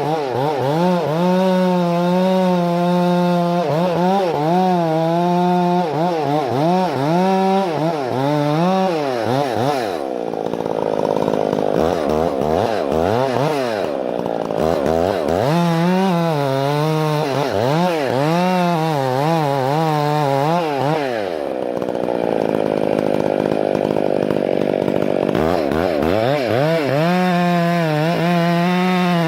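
Chainsaw running at high revs through wood, its engine pitch wavering constantly under the load. Twice, about ten seconds in and again just past twenty seconds, the pitch falls away for a few seconds before the saw revs back up.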